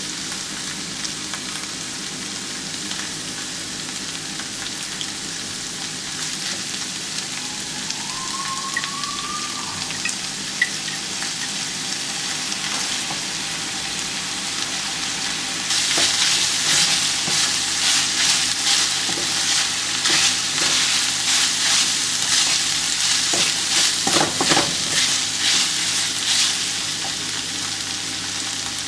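Food sizzling in a hot oiled pan while being stirred. The sizzle grows louder about halfway through, with repeated stirring strokes.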